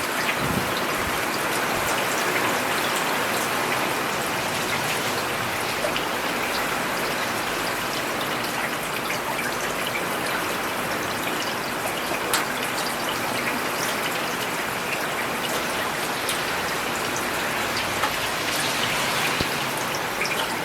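Steady rain falling on a paved urban road: an even hiss of rainfall with scattered sharper drop hits, one a little louder about twelve seconds in.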